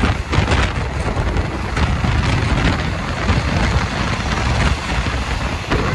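Passenger train running, heard from on board: a loud, steady rumble with irregular sharp knocks of the wheels and carriage over the track.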